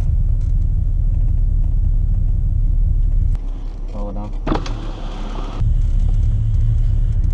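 Car engine idling, a steady low rumble heard inside the cabin. For about two seconds in the middle it drops to a quieter rumble with a brief voice.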